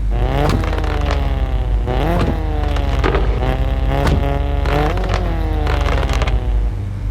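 Straight-piped VW Golf Mk7 exhaust blipped repeatedly, each rev quickly falling back in pitch, with sharp cracks along the way. It settles to a steady idle near the end.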